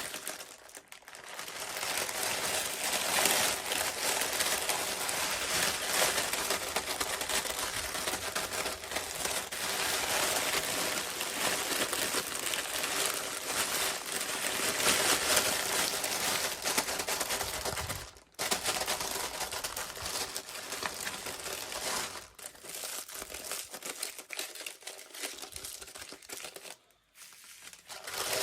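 Packaging being unwrapped, crinkling and rustling almost without a break. A short pause comes about two-thirds of the way through, and the crinkling after it is more broken up.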